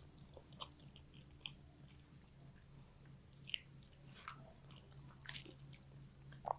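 Close-up chewing of a mouthful of fish curry and rice: soft, scattered wet mouth clicks and lip smacks, with the loudest smacks about three and a half and five seconds in.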